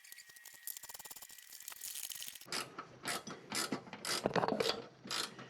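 Socket ratchet wrench clicking as it turns a 9/16 nut on a mower deck's pulley shield: a fast run of fine clicks, then from about halfway in, louder back-and-forth strokes about two a second.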